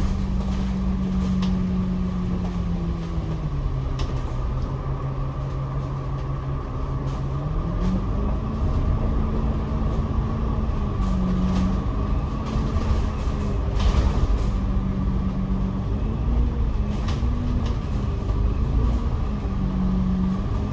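Double-decker bus heard from the upper deck while driving: a steady engine and driveline note drops in pitch about four seconds in and climbs back about eight seconds in as the bus slows and pulls away, over a low rumble with scattered short rattles.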